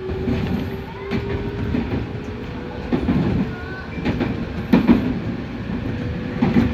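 Nankai 1000 series electric train running, heard from the driver's cab: the wheels clunk heavily over rail joints every second or two. Under the clunks, the traction motors whine steadily, slowly rising in pitch as the train gathers speed.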